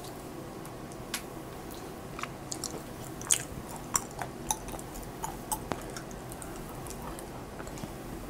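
Close-miked chewing of German-style handmade ham dipped in mustard: irregular wet mouth clicks and smacks, the loudest about three seconds in, thinning out after about six seconds.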